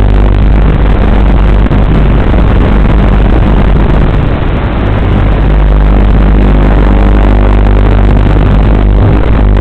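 Loud, steady noise from a small electric RC car picked up by its onboard FPV microphone, with a low, unchanging hum under it. It dips slightly about halfway through.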